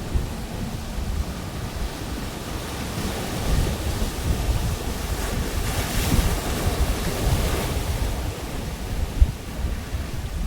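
Pacific Ocean surf: waves breaking and washing up the beach, one swelling to its loudest about halfway through, with wind rumbling on the microphone.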